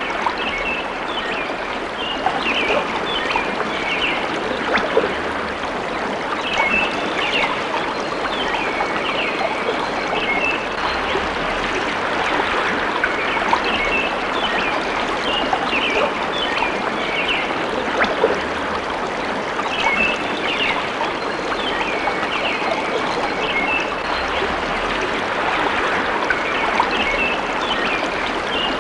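Steady running water of a stream, with clusters of short high chirping calls recurring every few seconds over it.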